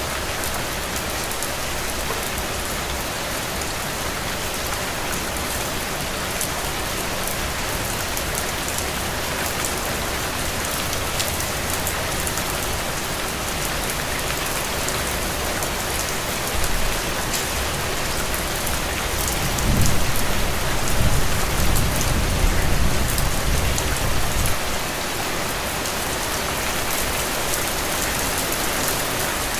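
Heavy, steady rain pattering on the ground. Past the middle, a low rumble swells for several seconds and then dies away under the rain.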